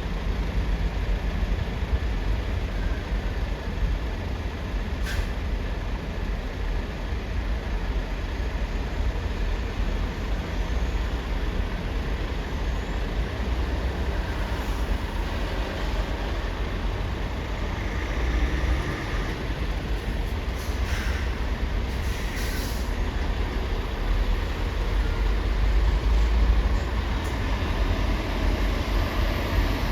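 Steady low rumble of heavy engines at a ferry port, with a few short hisses about twenty and twenty-two seconds in.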